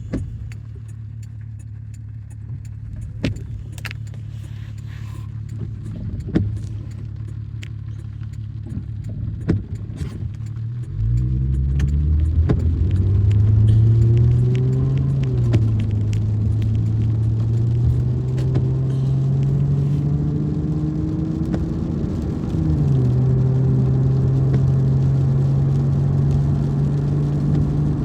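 Car engine running steadily, then about eleven seconds in the car pulls away and the engine note rises and falls as it gathers speed, rising again near the end. Light clicks and rattles are scattered throughout.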